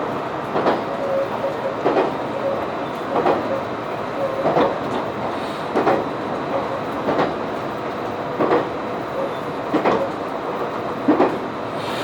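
Train running along the line, its wheels clacking over rail joints in a steady rhythm of about one clack every 1.3 seconds over a continuous rolling noise.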